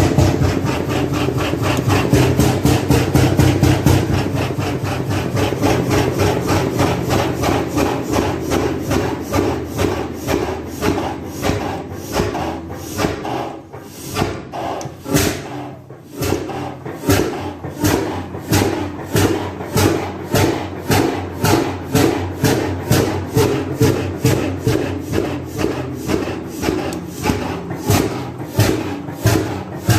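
35 hp Primo hot-bulb oil engine running with a regular beat of firing strokes. About halfway through the beat weakens and dips, then picks up again into a steady rhythm.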